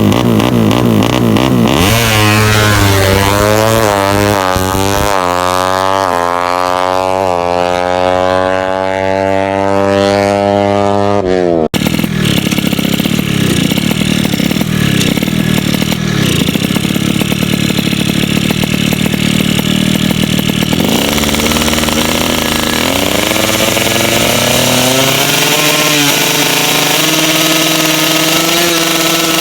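Tuned drag-race motorcycle engine revving up hard, its pitch climbing steadily for about ten seconds before breaking off suddenly. It then runs at high revs and climbs again in the last third.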